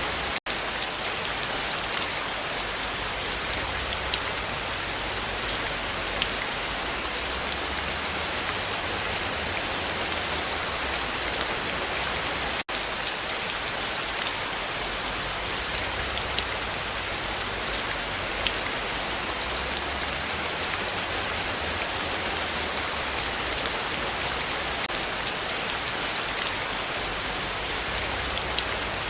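Heavy rain falling steadily, a dense hiss of rain on surfaces with many individual drops ticking through it. The sound cuts out for an instant twice, about half a second in and near the middle.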